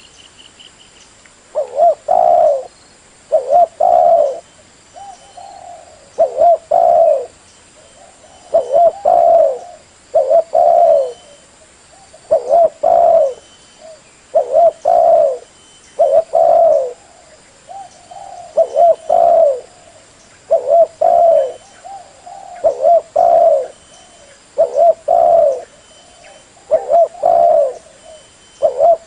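Spotted dove cooing: phrases of two or three low coos, repeated about every two seconds.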